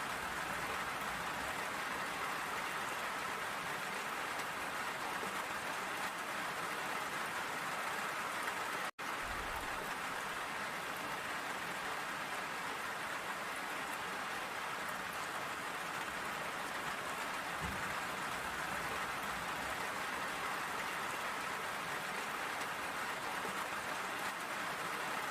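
Steady rain falling, an even dense hiss of drops on surfaces. The sound cuts out for an instant about nine seconds in, and faint low thumps come twice.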